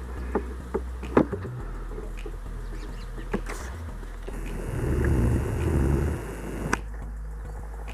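Honeybees buzzing as they fly around the hives on orientation flights, with a louder buzz swelling about five seconds in as one passes close. A few light taps come in the first second or so.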